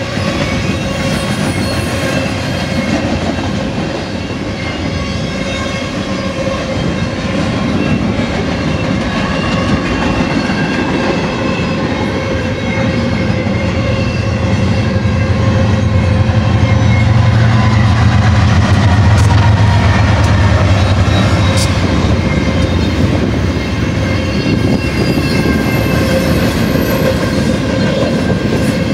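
BNSF double-stack container train passing close by, its steel wheels rumbling and ringing steadily on the rails. A deep diesel drone builds about halfway through, is loudest a few seconds later and fades again: the train's two mid-train diesel locomotives (distributed power units) going by.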